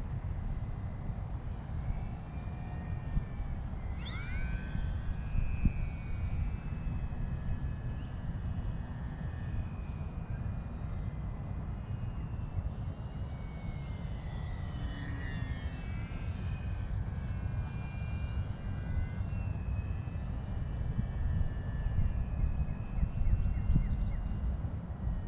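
Electric motor and propeller of a Volantex Sabre 920 RC airplane whining in flight from about four seconds in, its pitch gliding up and down with throttle and as it passes overhead. Steady wind noise on the microphone runs underneath.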